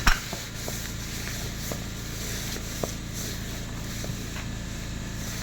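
Bolts and nuts clinking in a metal parts tray: one sharp clink right at the start, then a few faint clicks over a steady background hum.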